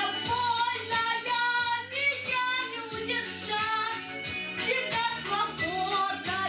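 A girl singing a pop song over a backing track with a steady beat.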